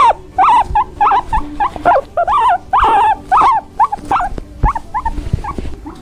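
Guinea pig squeaking: a quick run of short, bending squeaks, about three or four a second.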